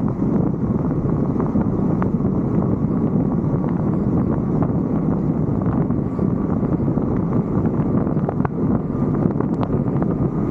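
Steady wind rush and road noise on a vehicle's roof-mounted camera while driving, with scattered faint ticks.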